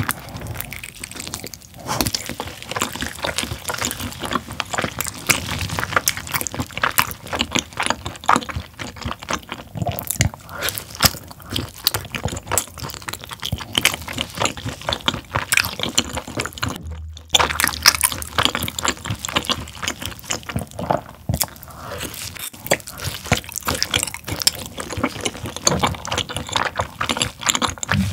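Close-miked wet chewing, smacking and sucking of sticky, gelatinous braised pork tail, a dense stream of moist clicks with a brief pause about two-thirds of the way through.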